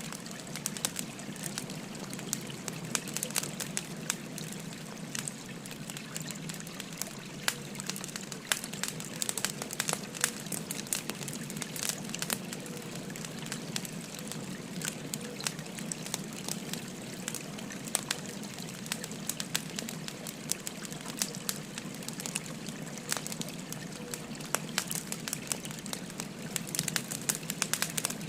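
Burning firewood crackling, with many sharp, irregular pops over the steady babble of a flowing river.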